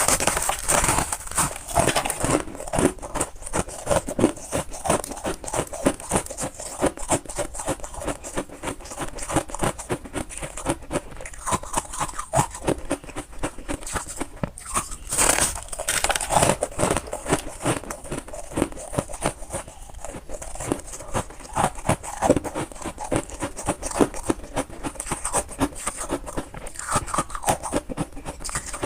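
Close-up crunching and chewing of soft, powdery freezer frost ice: a dense, continuous run of crisp crackles and crunches with no pauses.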